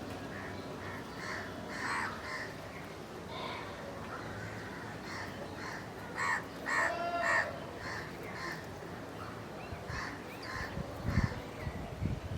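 Crows cawing repeatedly in short calls, with a louder run of caws about halfway through. A few low bumps near the end.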